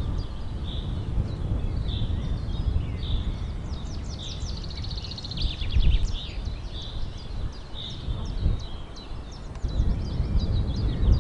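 Small birds chirping over and over in short, high calls, with a fast trill about halfway through. A low rumble and a few dull knocks run underneath.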